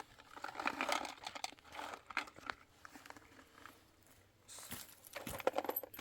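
Rustling and crinkling handling noises with scattered light clicks. A busier stretch comes about half a second in and another near the end.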